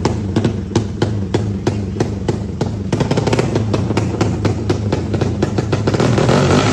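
300cc drag-race motorcycle engine running with a slow, uneven, helicopter-like chop of about four pulses a second. The firing quickens from about halfway, and it revs up louder near the end.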